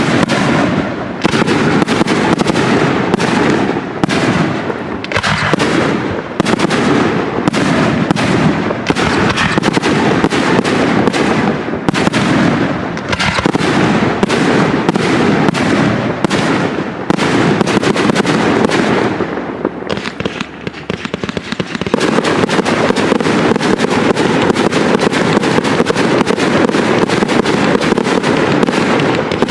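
Professional aerial fireworks display: shells bursting in rapid, overlapping succession. About twenty seconds in there is a brief lull, then the barrage turns into a dense, continuous crackle.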